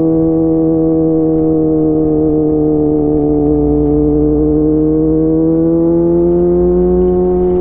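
Kawasaki ZX-25R's 250 cc inline-four engine running through a DX Generation GPR full-system exhaust while riding at steady revs, which sag slightly and then climb gently again.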